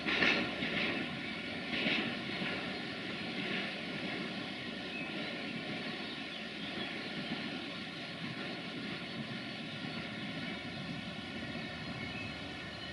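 Diesel train running past with a steady engine drone, with a few short bursts of clatter in the first four seconds.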